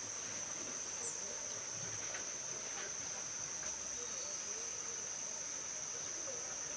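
Insects trilling outdoors in a steady, unbroken high-pitched drone, with a couple of brief faint chirps above it.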